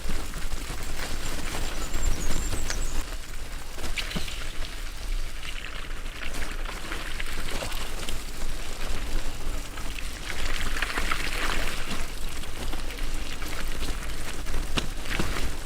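Bicycle tyres rolling over a wet, muddy trail: a steady crackling hiss over a constant low rumble.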